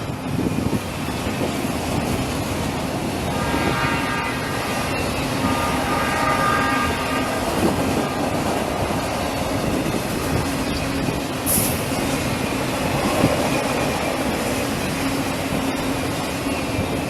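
Train passing, its wheels and cars making a steady rumble on the rails. The locomotive's horn sounds again, fainter, from about three and a half to seven seconds in.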